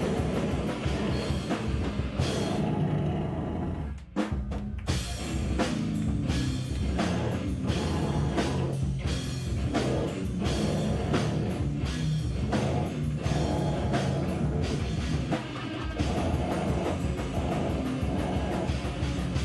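A live band playing loud rock with a drum kit and guitars. The band cuts out for a moment about four seconds in, then comes straight back in.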